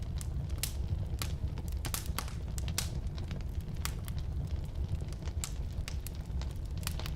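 Firewood burning in a fireplace: a steady low rumble of the flames with irregular sharp crackles and pops from the burning wood, a few each second.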